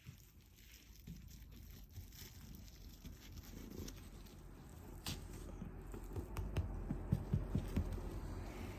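Domestic cat purring with a low rumble, with a few short low thumps in the second half.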